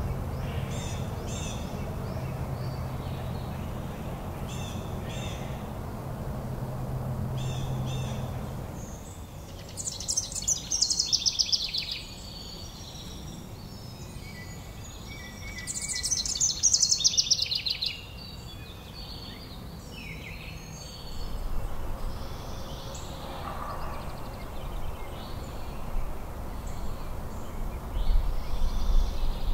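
Wild birds singing and calling: short high chirps repeat through the first third, then two loud, rapid trills fall steeply in pitch about a third and half way through, with scattered calls after. A low steady hum sits under the first third.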